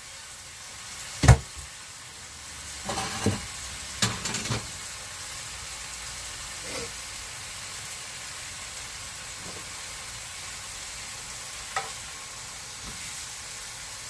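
Kebabs on wooden skewers sizzling steadily as they cook. A few knocks and clatters come over the sizzle, the loudest about a second in, then several more a couple of seconds later.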